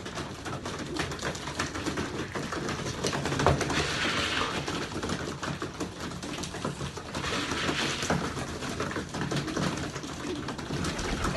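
Young pigeons in a loft cooing, among many small clicks and taps, with two short flurries of rustling, one about four seconds in and one about eight seconds in.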